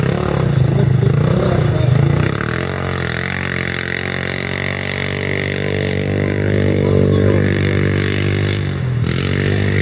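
Quad bike engines running: a rough engine sound for about two seconds, then a steady, droning engine note held at constant revs, dipping briefly near the end.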